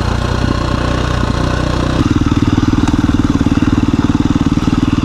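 2017 KTM 350 EXC-F dual-sport motorcycle's single-cylinder four-stroke engine running at low speed. About two seconds in its note changes to a louder, evenly pulsing one.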